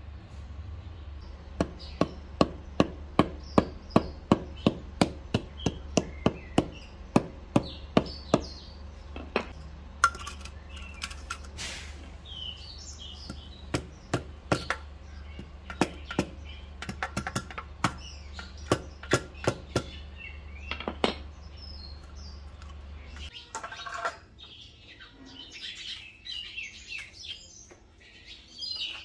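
Small birds chirping and tweeting, over a run of sharp knocks, about three a second, that turn slower and irregular partway through. A low steady hum cuts off about three-quarters of the way in.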